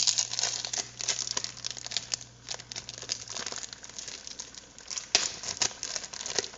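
Plastic cheese packaging crinkling and rustling as it is handled, in irregular crackly bursts. A faint low hum stops about halfway through.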